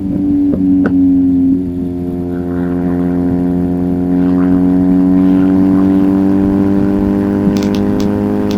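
1994 BMW R1100GS flat-twin boxer engine running at fairly steady revs through an Akrapovic titanium exhaust. There are a couple of sharp clicks about half a second and a second in, and a slight dip in pitch about a second and a half in.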